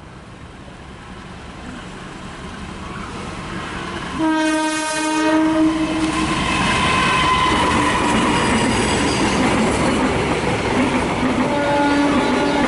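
Train approaching and growing louder, sounding its horn once for about two seconds some four seconds in, then running past close by at speed with a loud steady rumble of wheels on the rails.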